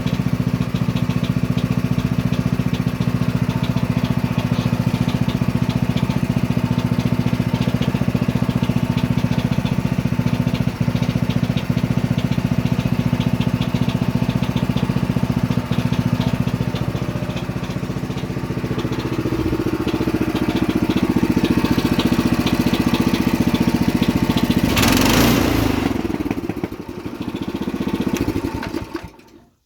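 Home-made tractor's engine running steadily. Its pitch rises about two-thirds of the way through, and a short loud noise comes over it near the end before the sound drops away.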